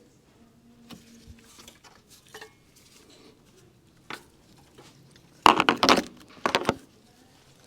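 Metal hand tools and parts clinking and clattering during the last of the compressor installation: scattered light clicks, then a loud metallic clatter about five and a half seconds in and another a second later.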